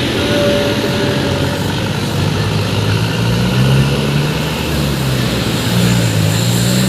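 Truck engine running close by, loud and steady, its pitch rising and falling slightly as it is revved.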